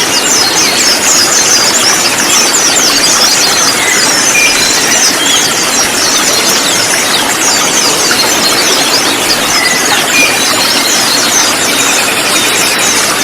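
Many ruby-cheeked sunbirds (kolibri ninja) chattering together in dense, overlapping, quick high chirps over a steady hiss.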